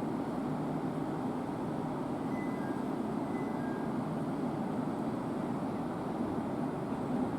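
Steady low rumble of a train at the station, with two faint brief high tones about two to three seconds in.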